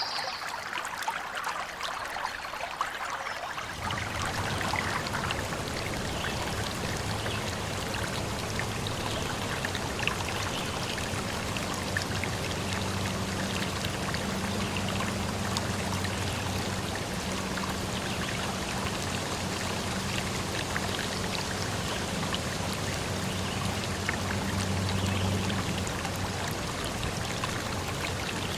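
Running water from a small stream, pouring and trickling steadily. A low steady hum joins it about four seconds in.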